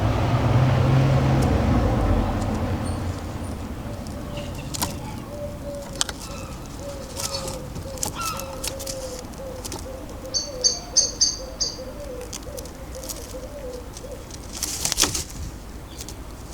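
Garden birds at a feeder. A passing vehicle's low rumble fades over the first few seconds, then small birds give five quick high chirps around ten seconds in, and a brief flurry of wingbeats comes near the end, with light clicks scattered between.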